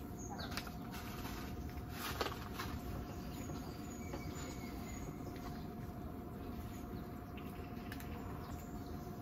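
Steady hiss of rain around a tent, with a faint steady hum, and a few soft clicks and rustles as a small dog sniffs over a quilted mat for thrown treats.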